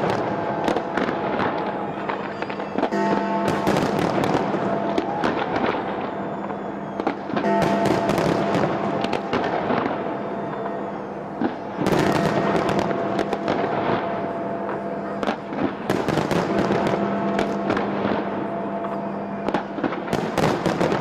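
Large fireworks display: shells bursting and crackling in volleys of rapid bangs every few seconds, with music playing underneath.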